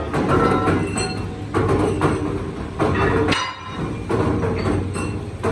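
Steel-working machinery in a rim plate workshop clanking and rattling in repeated surges about a second long, with sharp metal knocks and a faint metallic ringing.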